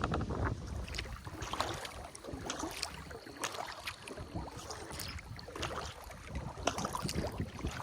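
Kayak paddle strokes dipping and splashing in river water, with drips and water moving against the hull in an irregular rhythm of about one splash a second.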